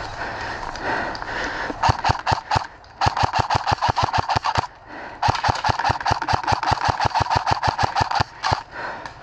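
Airsoft electric gun (AEG) firing: a few quick single shots about two seconds in, then two full-auto bursts, the second about three seconds long, with the gearbox's rapid mechanical clatter.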